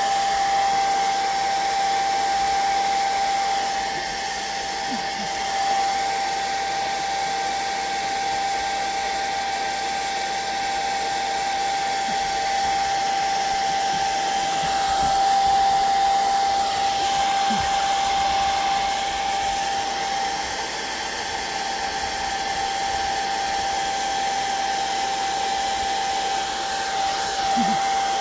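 Hair dryer blowing steadily, a constant rush of air with a steady high whine from its motor, as used to dry wet watercolor and ink.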